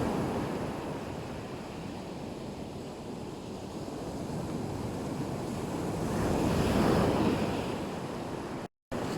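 Black Sea surf washing on the shore in a steady rush, swelling as a wave breaks about six to seven seconds in. The sound cuts out completely for a moment near the end.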